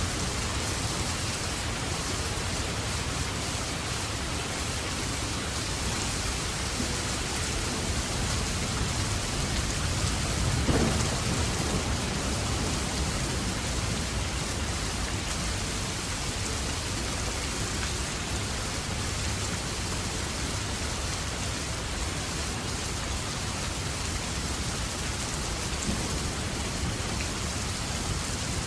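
Steady rain falling, a constant hiss and patter. Around ten seconds in, a brief low rumble of thunder rises and fades.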